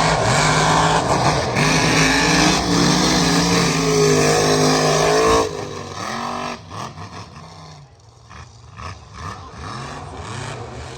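Mega mud truck engine running at full throttle, its pitch climbing. About five and a half seconds in it cuts off abruptly to a quieter engine sound that falls and rises in pitch.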